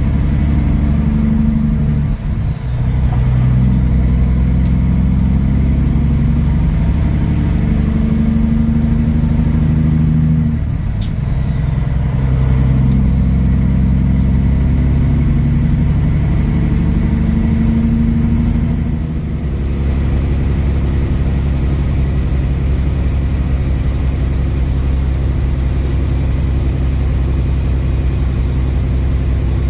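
Kenworth W900 semi truck's diesel engine pulling up through the gears. The engine pitch and a high turbo whistle climb together and drop back at each of about four upshifts, then settle into a steady cruise.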